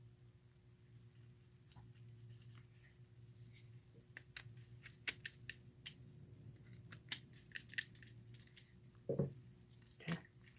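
Faint clicks and light metallic ticks of a nut driver and small nuts being fitted back onto a toy train locomotive's motor, with a heavier knock about nine seconds in and another near the end, over a faint steady hum.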